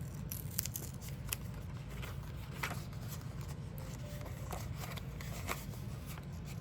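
Faint, scattered scratches and ticks of paper stickers being picked and peeled off a sticker sheet, over a steady low hum.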